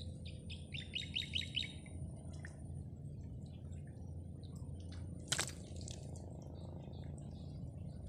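A small bird gives a quick run of about eight chirps about a second in, over a steady low outdoor rumble. About five seconds in comes a single sharp click.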